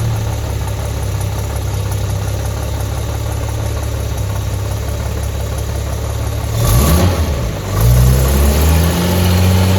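1964 Jaguar E-Type's straight-six engine idling steadily, still warming up from a cold start. About seven seconds in it is revved, and the revs rise and hold at a faster idle near the end.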